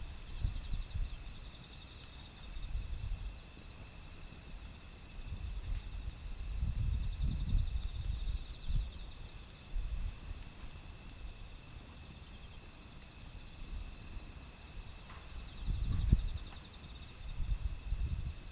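Wind gusting on the microphone in low rumbles, strongest about a third of the way in and again near the end, over steady insect chirping.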